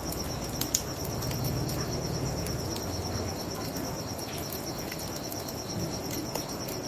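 Crickets chirping in a steady, rapid pulse over a low rushing of river water, with the sharp crackles and pops of a wood fire. One pop about a second in is louder than the rest.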